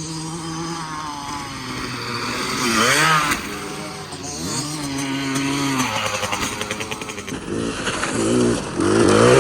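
KTM 65's small two-stroke dirt bike engine riding around the track, its revs rising and falling repeatedly and climbing hard near the end.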